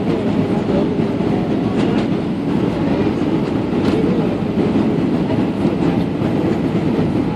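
Steady rumble of airflow and engines inside the passenger cabin of an Airbus A320 on approach, with a few faint clicks and rattles.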